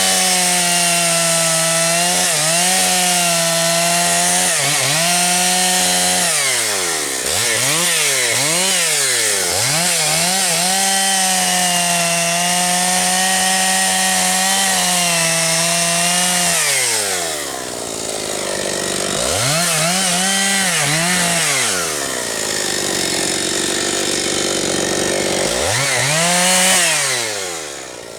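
Husqvarna 272XP two-stroke chainsaw cutting firewood at full throttle, its engine note held high through long cuts, with quick revs up and down between them. About two-thirds through it drops to idle, then is revved again briefly near the end.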